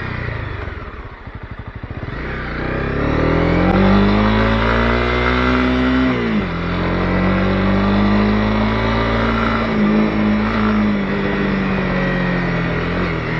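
Honda CB250R's single-cylinder four-stroke engine under way. It starts at low revs with the throttle closed, then picks up revs over a couple of seconds. The revs drop sharply at a gear change about six seconds in, and it pulls on at steady revs.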